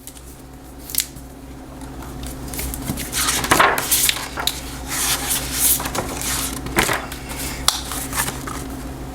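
Irregular crisp rustles and light clicks of paper being handled, like the pages of a picture book being opened and turned, over a steady low hum.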